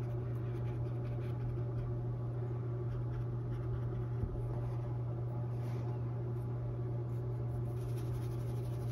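Paintbrush scratching softly as it works white acrylic paint onto a stretched canvas, over a steady low electrical hum.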